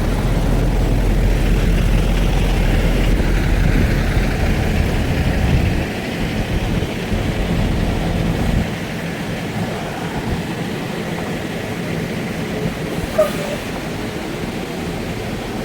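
Steady engine and road noise of a semi-truck heard from the cab while it drives; the low rumble eases down about six seconds in and again a little after eight seconds. A short click comes near the end.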